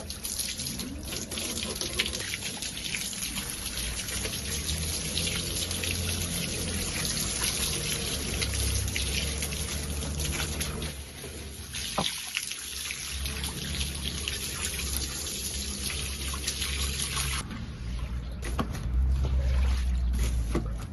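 Water running and trickling, as from a tap or a hose during cleaning.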